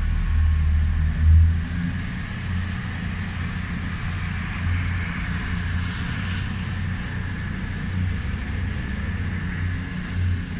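CrossCountry passenger train running past, a steady low drone with rolling noise that peaks about a second and a half in and then eases slightly.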